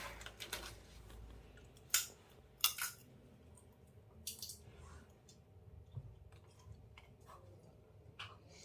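Salted sunflower seed shells (pipas) being cracked open between the teeth: a few scattered sharp cracks and clicks, the loudest about two seconds in, with brief soft rustles of the shells.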